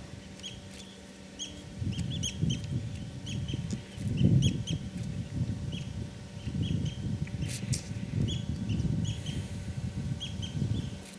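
A bird calling with short, high chirps repeated over and over, over a low muffled rumble that comes in about two seconds in and is loudest around four seconds.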